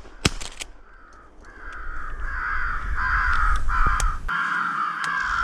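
Crows cawing in a dense, continuous run of harsh calls, dipping briefly about a second in and then building again, with a few sharp clicks near the start.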